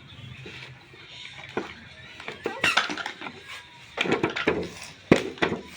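Irregular taps, clicks and knocks of small hard objects being handled, growing busier from about halfway through, with one sharp knock near the end.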